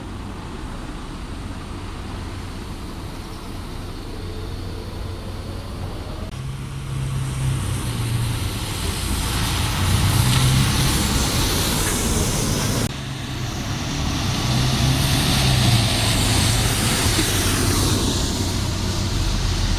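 Heavy vehicle engine running and growing louder as it approaches, its low note stepping up and down, over street traffic noise. An abrupt cut about thirteen seconds in, then more engine and passing noise.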